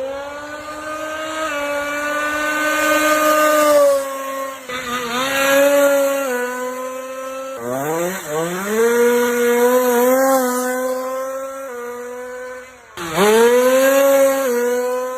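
An engine revving, its pitch climbing and settling in repeated sweeps, with several abrupt cuts between revs.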